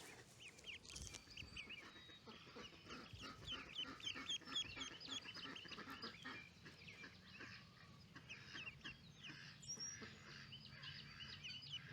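A group of Rouen ducklings, about two days old, peeping: many faint short calls overlapping in a continuous chorus.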